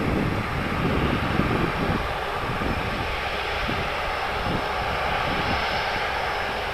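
Jet engines of a British Airways Airbus A380, its Rolls-Royce Trent 970 turbofans, running with a steady rushing jet noise and a faint high whine. Wind buffets the microphone in the first couple of seconds.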